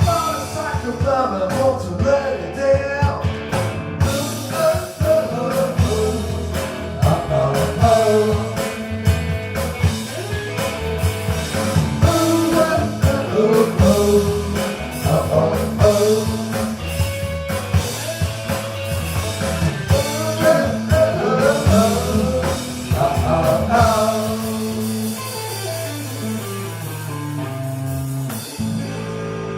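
Rock band playing live, with guitars, bass and drum kit. Near the end the drumming stops and a final chord is held, ringing and slowly fading.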